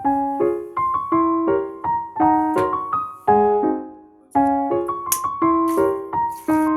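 Background piano music: gentle chords and single notes that ring and fade, with a brief pause about four seconds in.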